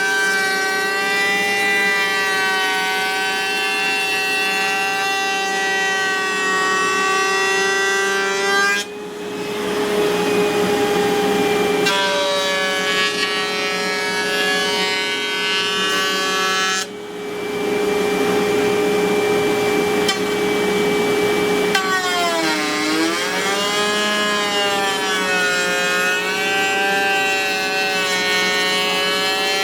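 Wood router on a router table running at high speed with a steady whine while routing an edge profile on a wooden door panel. The sound dips briefly twice, about a third and just over halfway in. About three quarters in, the pitch sags and recovers as the bit loads up in the cut.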